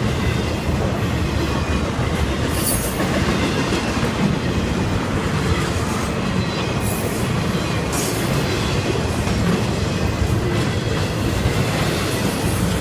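Norfolk Southern intermodal freight train's trailer and container cars rolling past close by: a steady rumble and clatter of steel wheels over the rail joints, with a few brief high-pitched hisses from the wheels.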